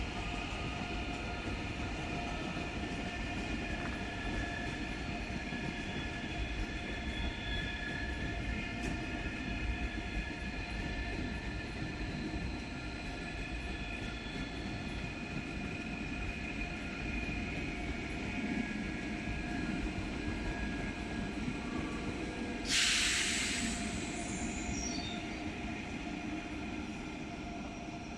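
A train rolling through the station with a steady low rumble and high wheel squeal held on several tones. About 23 seconds in there is a sudden loud hiss that fades within a second or so.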